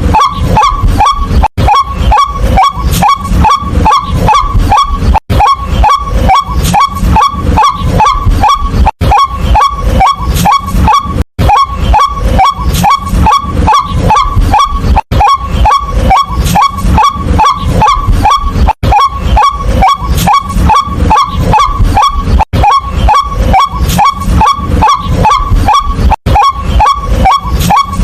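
White-breasted waterhen giving its loud repeated kwak call, about four calls a second, with short breaks every few seconds.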